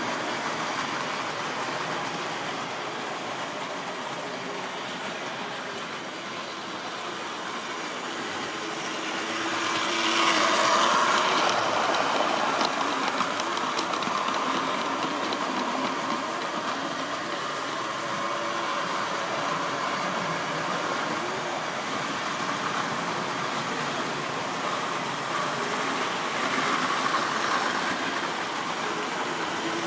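Model railway train running on the track: the locomotive's small electric motor hums and the wheels clatter over the rails. It grows louder about ten seconds in, with light clicks as the wheels cross rail joints.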